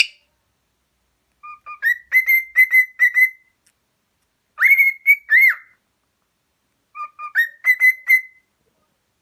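A pet bird whistling a short tune in three phrases of clear, sliding notes, the last phrase repeating the first.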